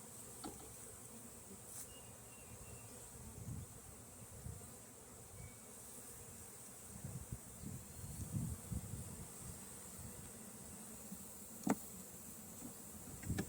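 Honeybees buzzing close around an open hive, the buzz rising and falling as they fly past, louder for a few seconds in the middle. A single sharp click near the end.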